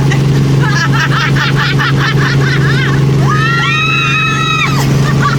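Steady low drone of a helicopter, heard from inside the cabin. A voice rises over it and holds one long note near the end.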